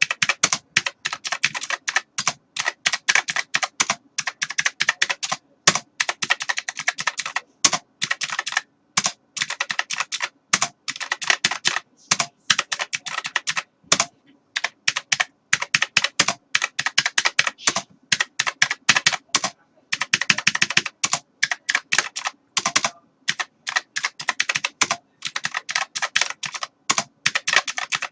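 Computer keyboard being typed on quickly: rapid key clicks in runs of a few seconds, broken by short pauses.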